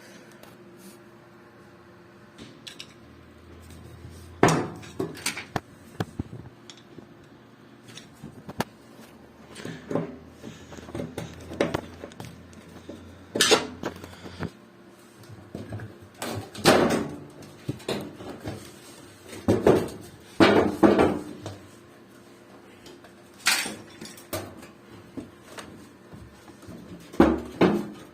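Irregular metallic clanks, knocks and rattles as tools and parts are handled while working on a washing machine, over a faint low hum. A few louder knocks stand out, about a dozen in all.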